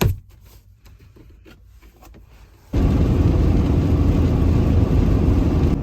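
A sharp click, then about three seconds in, steady diesel engine and road noise inside a Mercedes Sprinter van's cabin as it drives, starting abruptly at full level.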